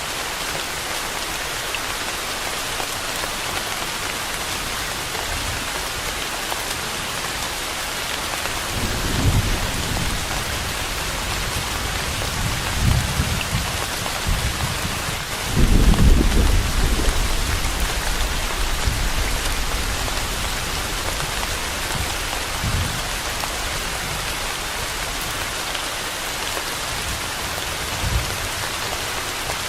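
Steady rain falling, with thunder rumbling several times, the longest and loudest roll about halfway through.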